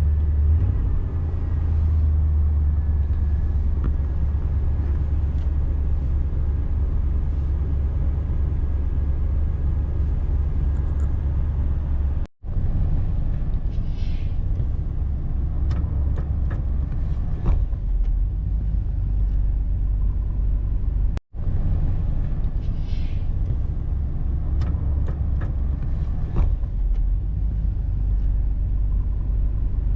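1989 Chevy G20 van's engine running with a steady low rumble as it warms up, with two brief gaps in the sound.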